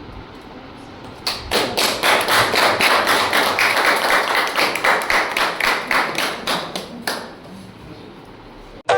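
A group of people clapping in unison, a steady run of about five claps a second that starts about a second in and stops about seven seconds in.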